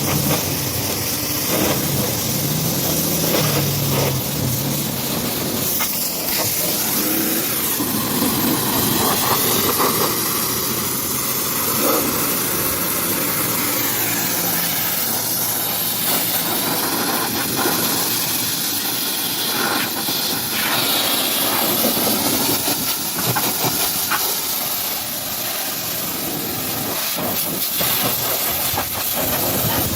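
High-pressure washer spraying water against a truck: a loud, steady hiss that wavers in tone as the jet moves across the surface.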